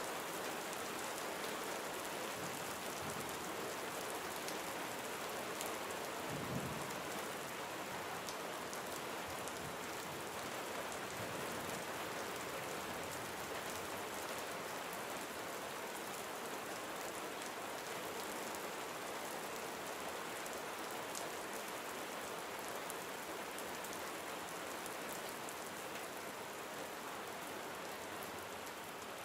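Steady gentle rain falling, with the patter of individual drops on surfaces. There is a brief low thump about six seconds in.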